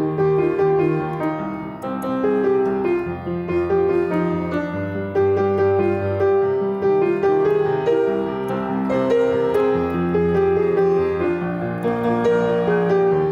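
Keyboard music: held chords over slow-changing bass notes.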